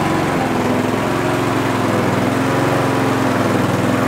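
Homelite V35 lawnmower's petrol engine running steadily, with only a slight up-and-down surge: pretty smooth, which the owner puts down to the air filter having caused the surging.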